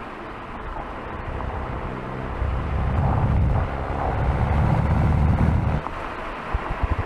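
2021 Mini Clubman JCW's turbocharged 2.0-litre four-cylinder under hard acceleration. The engine and exhaust note build about two seconds in, dip briefly at a gearshift, swell again, then drop away about six seconds in as the throttle is lifted. A few short low thumps follow near the end.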